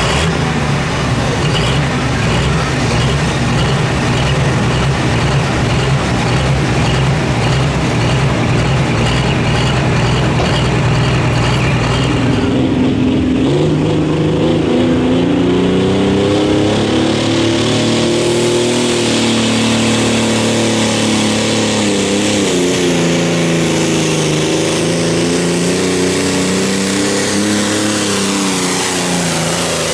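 Pulling vehicle's engine running loud at a steady full-power pitch. About twelve seconds in, the note changes: it drops, then rises and falls repeatedly as the throttle is worked.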